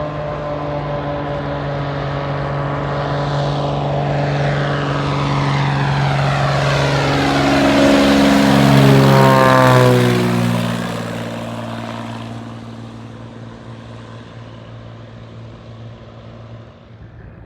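Floatplane's propeller and piston engine passing close by. The drone builds to its loudest about nine seconds in, drops in pitch as the plane goes past, then fades away.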